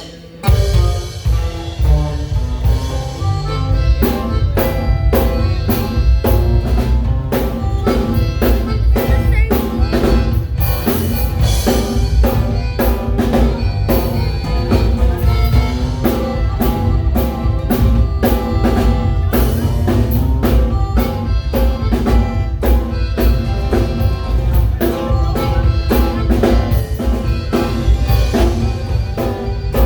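A waila band playing, its drum kit keeping a steady beat under pitched instruments, starting abruptly about half a second in.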